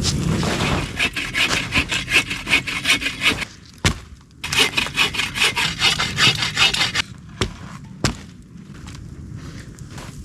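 Hand saw cutting wood in quick back-and-forth strokes, in two runs with a short pause about three and a half seconds in. The sawing stops about seven seconds in, and a couple of single knocks follow.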